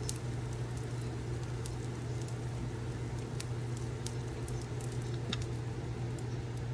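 Wood fire crackling in a fireplace: scattered sharp pops and snaps over a steady low hum.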